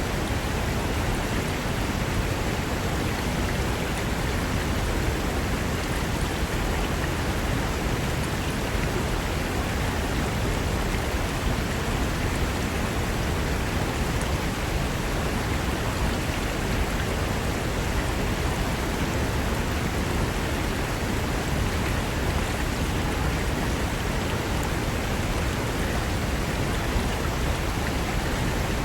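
Fast mountain river running over rocks: a steady, unbroken rush of water.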